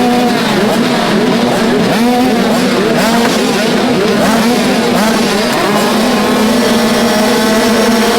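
Several motocross bikes revving on the track, their engine notes rising and falling over one another with each throttle change, over a steady, even engine hum.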